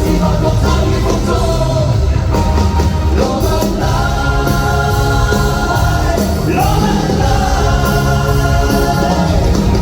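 Live rock band playing loudly, with long sustained lead notes over bass and drums.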